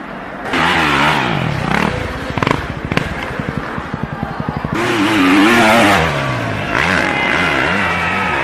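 Dirt bike engine revving, its pitch rising and falling unevenly, with a stretch of rapid low pulsing in the middle.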